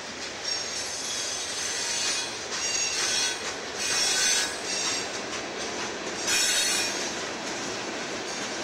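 Freight train of hopper cars rolling past on a curve, a steady rumble of wheels on rail broken by repeated bursts of high-pitched wheel squeal, the loudest about four seconds and six and a half seconds in.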